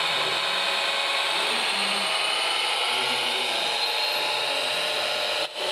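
Small electric motors and gearboxes of radio-controlled model trucks and construction machines whining steadily over a busy background. The sound drops out briefly near the end.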